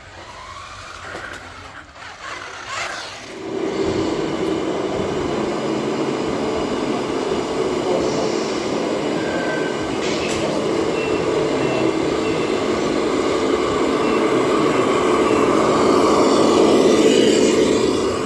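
A 1/14-scale radio-controlled model truck running, its motor and drivetrain giving a steady mechanical rumble. The rumble builds from a couple of rising whines into full running about three seconds in, and grows a little louder near the end.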